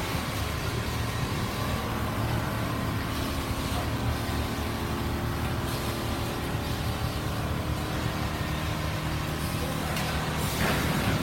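Many single-head quilting machines running together: a steady mechanical hum with a brief louder rush of noise near the end.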